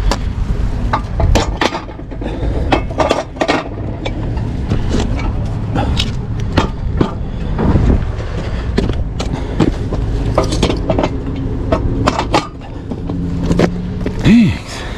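Tow truck engine running with repeated metal clanks and knocks from its hookup gear as a disabled car is hooked up for towing. A short whine rises and falls near the end.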